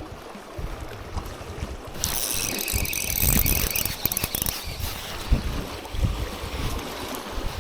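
Gusty wind buffeting the microphone in low, uneven rumbles. From about two seconds in, a hissing rush of higher sound lasts for about two and a half seconds.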